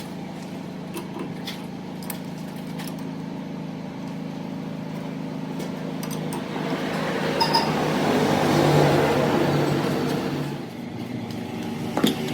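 A motor running steadily with a constant hum. It grows louder and rougher about seven seconds in, then drops back a little before eleven seconds. A sharp click comes near the end.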